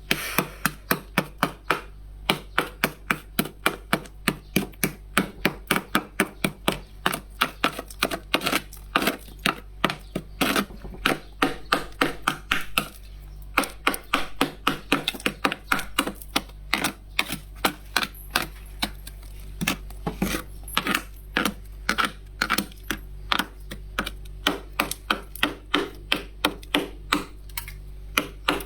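Built-up freezer frost being scraped in rapid crisp strokes, about three a second, with a brief pause about halfway through.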